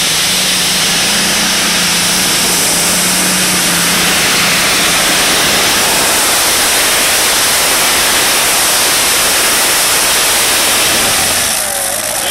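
Twin Rolls-Royce Griffon V12 aero engines of a free-class pulling tractor running at full power through a pull: a loud, dense, steady noise. It drops off shortly before the end.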